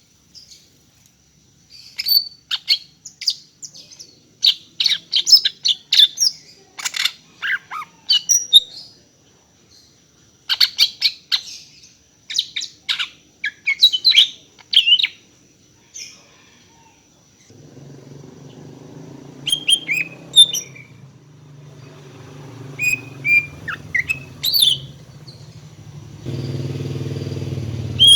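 Female greater green leafbird (cucak ijo) calling, a rapid run of short, sharp chirps and whistled notes in quick bursts, thinning out after the middle. A low steady hum comes in just past halfway and grows louder near the end.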